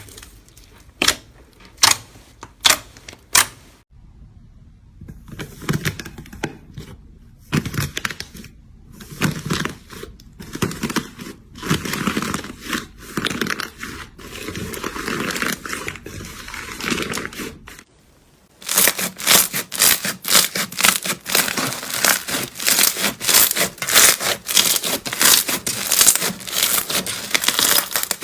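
Slime being squeezed, pressed and stretched by hand, with sticky crackles, pops and squishing. About two-thirds of the way through it changes to a dense run of quick crackling pops, as from crunchy slime.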